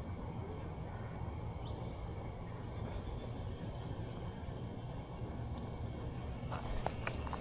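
Night insects, crickets or katydids, trilling steadily in one high continuous tone over a low steady rumble, with a few light clicks near the end.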